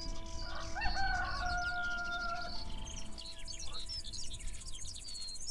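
A rooster crowing once, one long held call, among many small songbirds chirping. About halfway through, a high, even buzzing trill joins them.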